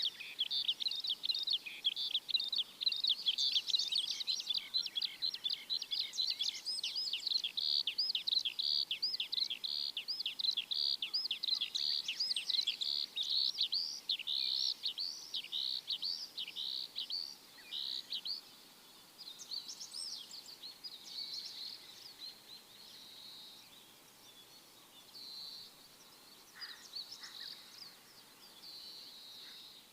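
Small birds chirping: a dense run of short, high, downward-sweeping notes, a few each second, which thins out after about 18 s into quieter, scattered chirps.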